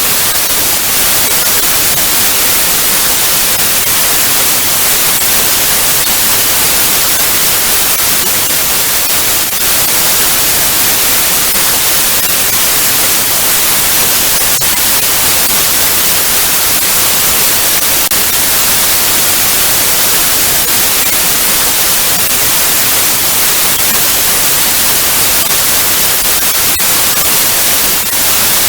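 Television static: a loud, steady hiss of white noise, brightest in the treble, with a few faint crackles.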